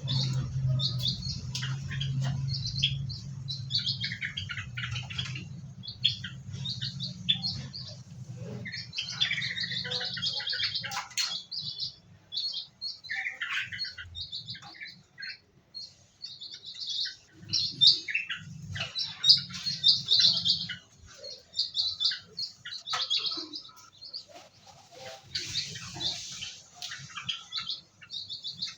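Small aviary birds chirping and twittering, many short quick calls overlapping from several birds. A low steady hum sits underneath during the first third and briefly again past the middle.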